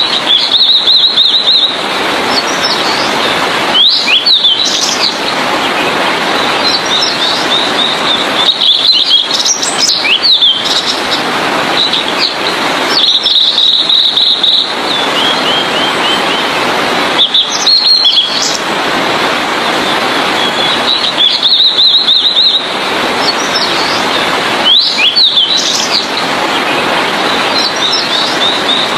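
Blue-and-white flycatcher singing: short, high, rapid phrases of chirps and quick rising notes, repeated every few seconds. A loud steady hiss lies under much of the song and cuts in and out abruptly.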